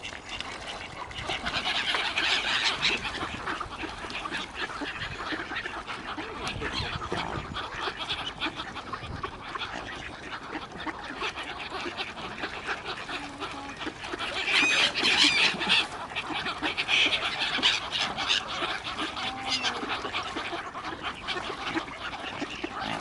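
A flock of waterbirds calling over and over as they crowd in to be fed, the calls loudest about two seconds in and again around the middle.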